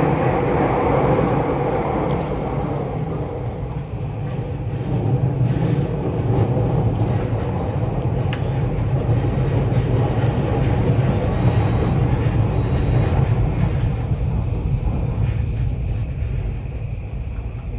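Tokyu 3020 series commuter train running, a steady rumble of wheels and running gear heard from inside the car, swelling and easing slightly with no sharp events.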